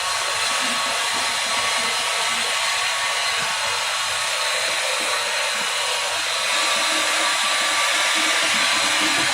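Steady rushing hiss of a blower-type motor moving air, with faint steady whining tones over it; it gets a little louder about two-thirds of the way through.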